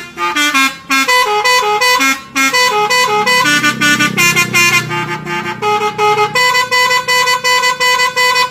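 Truck's musical horn playing a quick tune of stepped notes, with a low engine rumble underneath for a few seconds midway.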